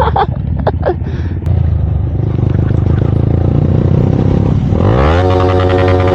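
Motorcycle engine running while riding, then revving up near the end with a quick rise in pitch and holding at higher revs.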